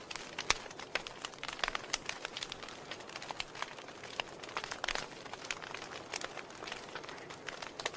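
Wood fire in a fireplace crackling: irregular sharp pops and snaps of burning logs over a faint hiss, with one louder pop about half a second in.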